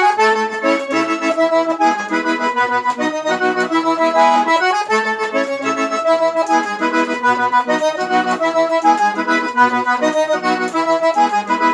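Sanfona (accordion) playing an instrumental forró passage: a moving melody over regular, bouncing bass notes.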